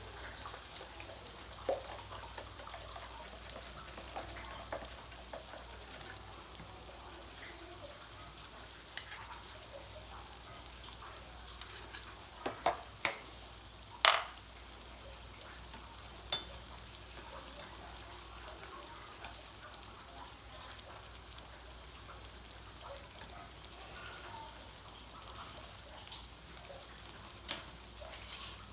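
Cakes frying in a pan with a steady sizzle, broken by scattered clicks and a few sharp knocks, the loudest about halfway through.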